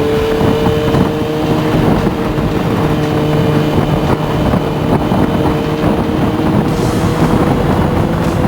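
Kawasaki Ninja ZX-6R inline-four with a carbon fiber Delkevic exhaust, running under way at nearly steady revs, the pitch creeping up slightly, with wind rushing over the microphone.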